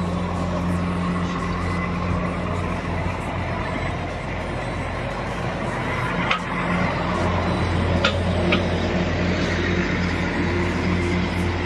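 An engine running steadily with a low, even hum, with a few short high squeaks or chirps about halfway through.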